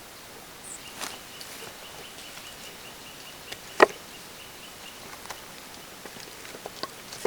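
Wood fire burning in a cooking fire pit, crackling: a steady hiss broken by sharp pops, with one loud pop about four seconds in and a quick run of smaller ones near the end.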